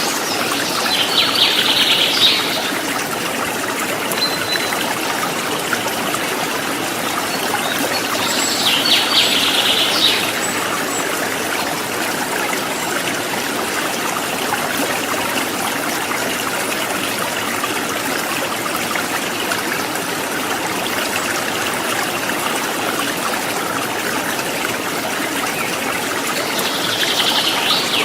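Rocky river water flowing steadily over stones. A bird gives a short, high trilling call three times: about a second in, around eight seconds in, and just before the end.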